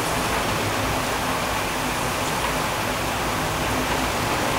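Heavy thunderstorm downpour: rain falling in a dense, even hiss that holds steady throughout.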